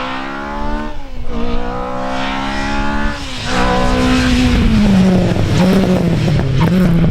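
Rally car engine accelerating hard: its note climbs steeply, drops back at an upshift about a second in and again about three seconds in, then runs at a lower, wavering pitch that sags toward the end.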